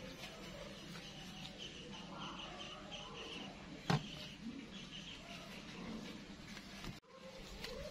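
A small bird chirping in a quick run of short, repeated high notes, with one sharp click about four seconds in.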